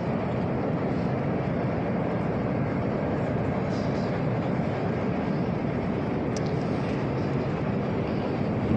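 Steady running noise of a moving train: an even rumble with hiss that does not change.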